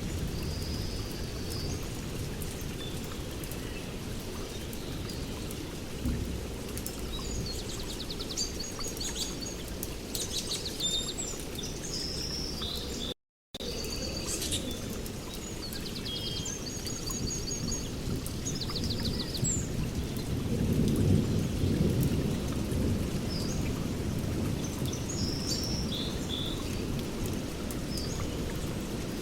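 Rainstorm with low rolling thunder, the rumble swelling louder about two-thirds of the way through, while birds chirp and trill throughout. The sound cuts out completely for a moment near the middle.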